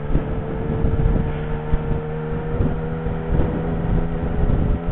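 Motorcycle engine running with a steady note, with wind rumbling on the helmet-mounted microphone.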